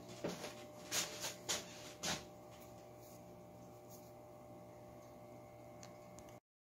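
A few light knocks and rustles in the first two seconds, then a steady low room hum with a faint thin tone; the sound cuts off suddenly near the end.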